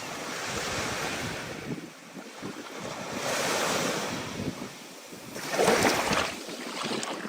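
Ocean surf in stormy weather: waves breaking and washing in, swelling and ebbing, with the biggest wave breaking about three-quarters of the way through. Wind buffets the microphone.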